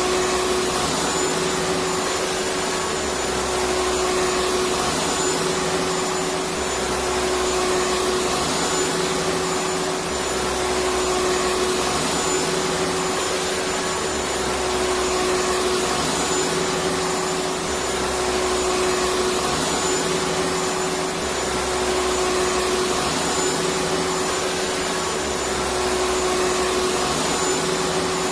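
Electric vacuum cleaner running steadily: an even rushing noise with a constant mid-pitched hum, and a low rumble that swells and fades about every two and a half seconds.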